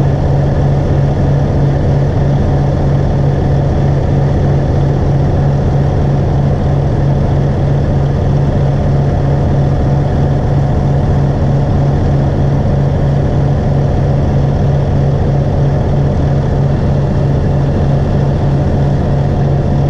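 A large engine running at a steady speed, with a strong low hum that holds constant throughout.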